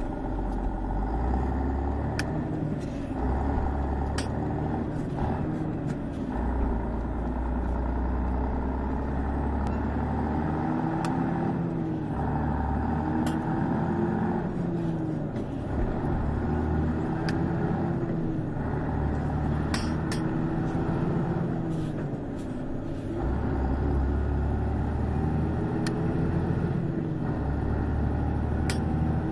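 1996 Volvo F12 truck's 420-horsepower diesel engine pulling hard under a heavy load, its note rising in each gear and dropping at each of many quick gear changes, with sharp clicks at the shifts. The gearbox synchros are worn out, so it is being split-shifted like an unsynchronised Road Ranger box.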